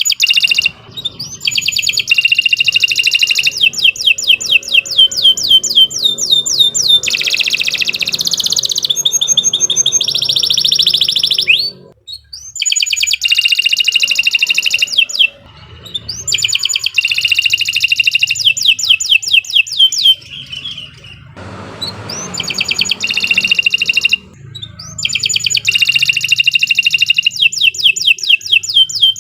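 Domestic canary singing long, loud song phrases of rapid trills and fast repeated chirps, broken by short pauses a few times.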